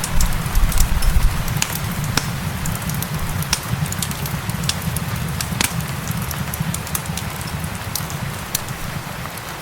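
Crackling wood fire with sharp pops and snaps a few times a second, over a steady hiss of rain and a low rumble.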